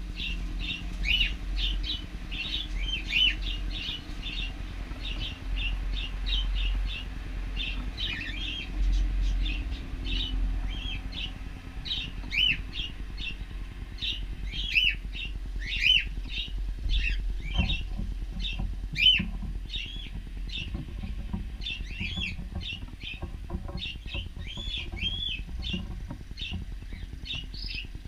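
Cockatiels chirping and calling almost without pause, many short overlapping chirps and some calls that fall in pitch, over a steady low rumble.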